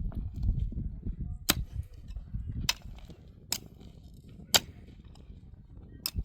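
About five sharp knocks of hard objects, roughly a second apart and unevenly spaced, over low rumbling handling noise.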